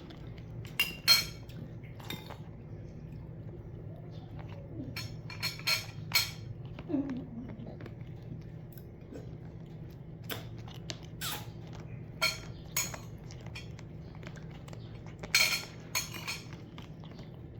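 Light, irregular clinks and taps of a food dish as a cat eats from it, over a steady low hum.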